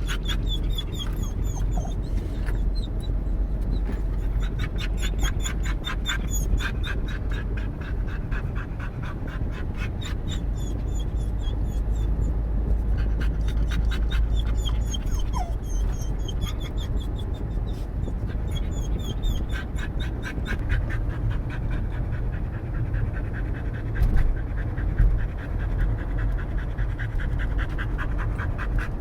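Blue heeler panting fast, about five pants a second, with high, wavering whines over it: the signs of its car anxiety. A steady low rumble of the moving car runs underneath, and a couple of knocks come about three quarters of the way through.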